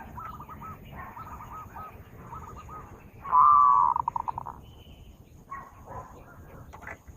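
Zebra dove (perkutut) cooing: a few soft, warbling cooing phrases, then a much louder phrase about three seconds in that ends in a fast, rattling trill, followed by fainter calls.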